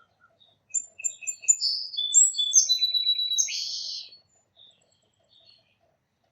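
A song sparrow sings one full song lasting about three and a half seconds. It opens with a few short repeated notes, then runs into buzzy and trilled phrases, starting about a second in.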